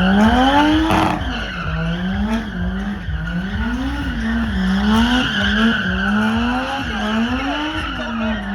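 A drift car's engine revving up and down about once a second over a steady screech of sliding tyres.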